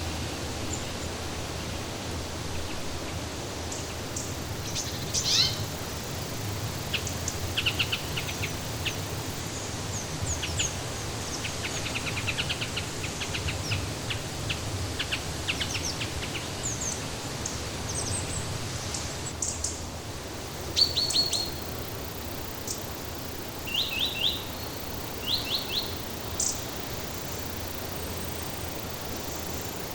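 Songbirds chirping and trilling in short, scattered calls over a steady rushing background noise.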